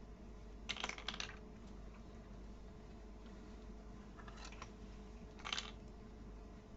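Plastic toy building pieces clicking and rattling as they are handled and fitted together, in three short bursts of clicks: one about a second in and two more near the end.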